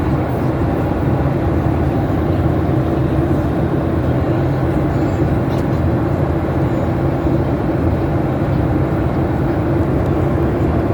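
Steady cabin noise of a Boeing airliner in flight during descent: an even drone of engines and airflow, with a steady low hum running through it.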